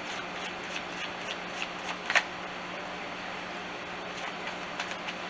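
Tarot cards being handled, a scatter of light flicks and taps with the sharpest about two seconds in, over a steady faint hum.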